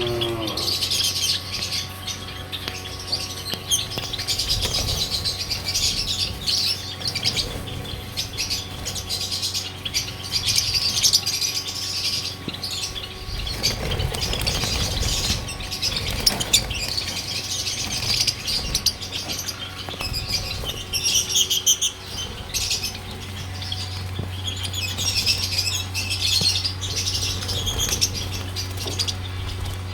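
Many small cage birds in a breeding aviary chirping and chattering together without a break, with occasional wing flaps and clicks. A steady low hum runs underneath and grows louder about two-thirds of the way through.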